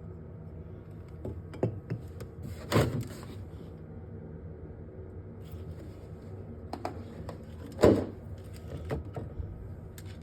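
Scattered knocks and clunks of things being handled while a fridge is cleaned out, two of them louder, about three seconds and eight seconds in, over a steady low hum.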